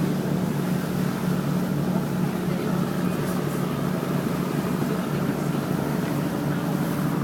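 Boat engine running steadily, a constant low hum heard from aboard.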